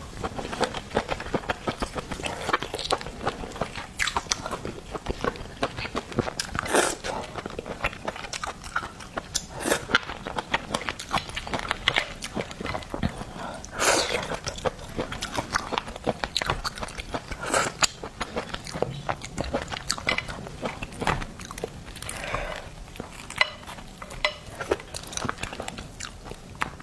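Close-miked eating of seafood: wet chewing and biting, dense with small clicks and crackles and now and then a louder snap.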